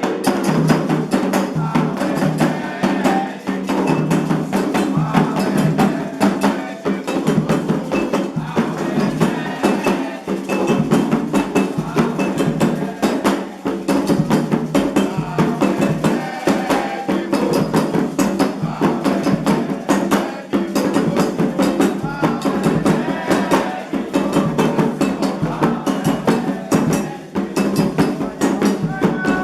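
Candomblé ritual music: atabaque hand drums playing a steady rhythm with a struck metal bell, and voices singing over them.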